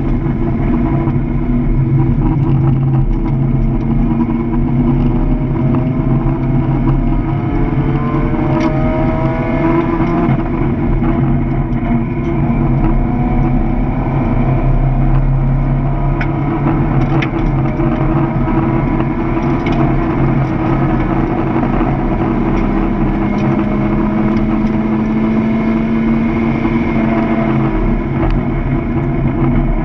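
Mazda Miata's four-cylinder engine heard from inside the cabin while driven hard: a steady drone with revs rising and falling through gear changes, mixed with road and wind noise.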